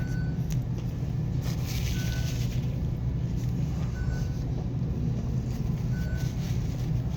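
A car engine idles steadily, heard from inside the cabin as a low rumble. A short, faint high beep repeats about every two seconds.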